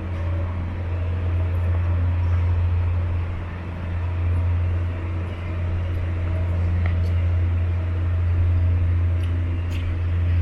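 City street traffic dominated by a steady low engine drone from a heavy road vehicle running nearby.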